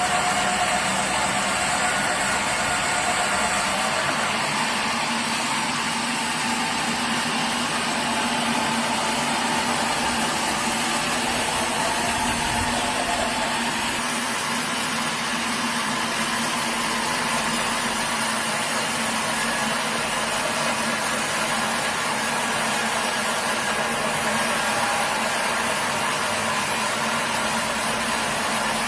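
Sawmill machinery running steadily: a continuous, unchanging engine-driven drone with a low hum under a broad rushing noise.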